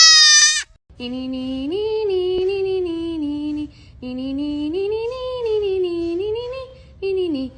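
A loud, high, bleat-like animal call cut off about half a second in, then a voice singing a slow melody in two long phrases of held, gliding notes.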